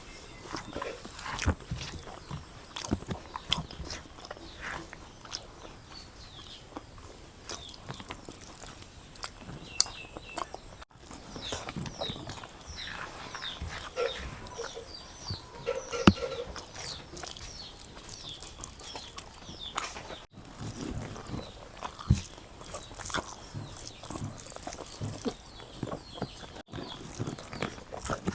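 A person eating chicken biryani: close, moist chewing with many short mouth clicks and smacks, and the odd crunch.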